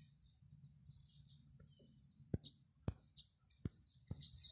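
Faint small-bird chirps and tweets, short and scattered, over a low background hum. Four or five sharp clicks come in the second half and are the loudest sounds.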